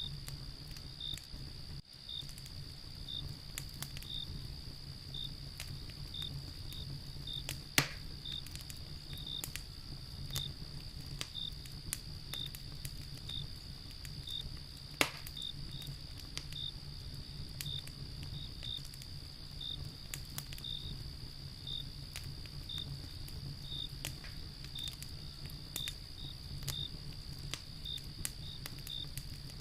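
Wood fire crackling, with scattered snaps and two loud pops, over a low steady rumble of flame. Crickets trill steadily behind it, with one chirping regularly about one and a half times a second.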